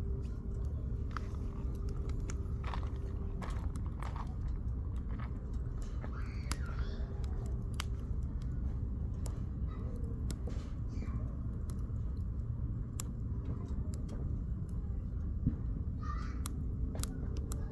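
Firewood burning in a campfire, crackling with many sharp irregular pops over a steady low rumble. Faint voices murmur in the background now and then.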